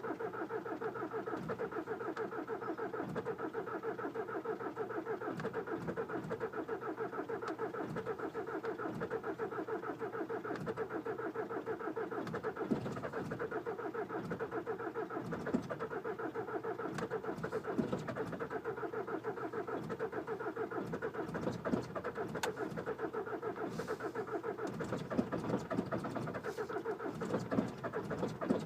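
VW Jetta Mk5 four-cylinder turbodiesel idling just after a cold start at −25 °C, running steadily with a fast, even rhythm.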